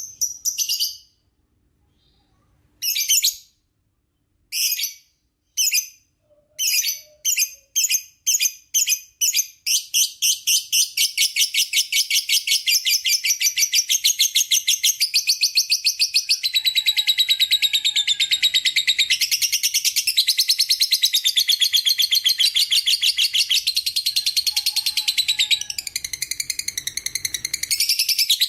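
A lovebird calling: sharp separate chirps that come faster and closer together, then about ten seconds in a long unbroken rapid chattering trill (ngekek).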